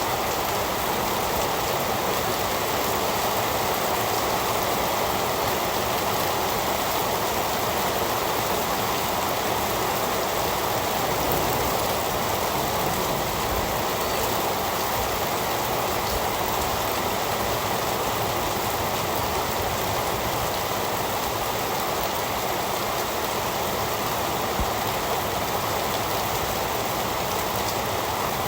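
Heavy rain falling steadily, an even hiss of water with no let-up.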